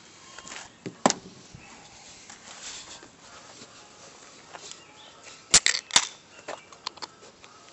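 A few sharp knocks and clicks, the loudest two about half a second apart some five and a half seconds in, with quiet between them. There is no steady welding-arc crackle.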